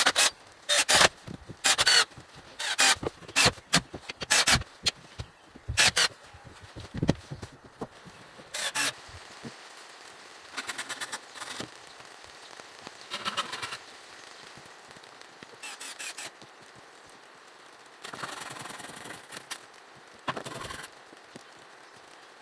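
A quick, irregular series of sharp knocks or blows, about one or two a second, for the first nine seconds, then a few quieter rasping bursts.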